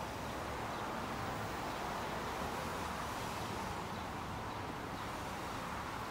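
Intermodal freight train rolling across a steel girder bridge: a steady, even rolling noise of wheels on rail with a low hum beneath.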